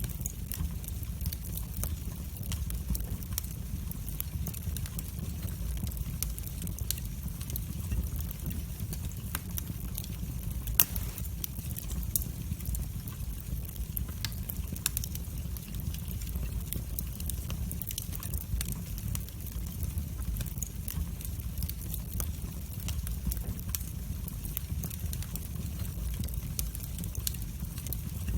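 Wood fire burning in a fireplace: a steady low rumble of the flames with frequent small crackles and pops, one louder crack about eleven seconds in.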